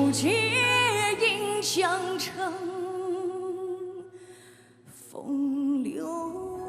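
A solo singer sings melodic runs and held notes with vibrato over soft accompaniment. The music drops almost to silence about four seconds in, then a held, wavering vocal note comes back.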